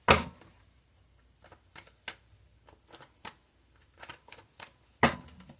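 Tarot cards being shuffled by hand: irregular soft card flicks and taps, with a louder knock right at the start and another near the end.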